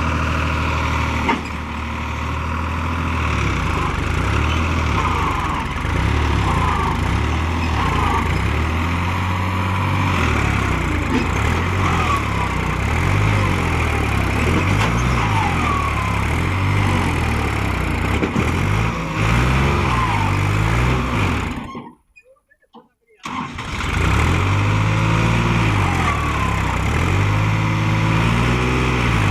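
New Holland 3600-2 tractor's 50 hp diesel engine working hard under load, its pitch rising and falling again and again as it strains to pull a fully loaded trolley stuck in mud. The sound cuts out for about a second near the end, then the engine comes back.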